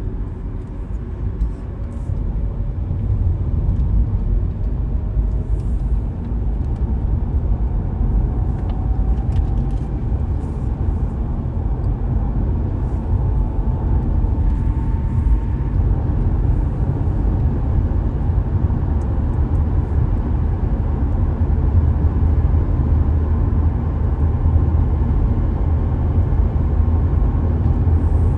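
Car driving along, a steady low road and engine rumble, with a faint whine that slowly rises in pitch partway through.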